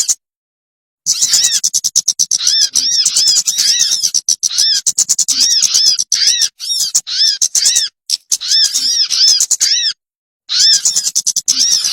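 Recorded bird lure call ('pikat') played back: rapid runs of short, high chirps, each note rising and falling in pitch, repeated many times a second. The playback starts about a second in, breaks briefly near the middle, and stops dead for about half a second near the end before resuming.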